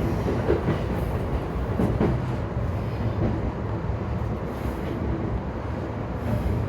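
E235-1000 series electric train running along the line, a steady rumble of wheels on rail with a few short knocks in the first two seconds.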